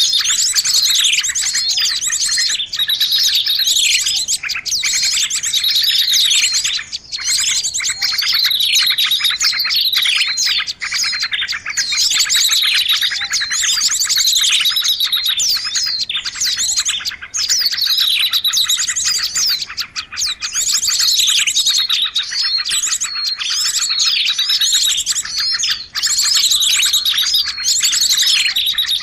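Bird-lure call of many small birds chirping and twittering noisily without a break, with quick high trills and falling chirps overlapping throughout.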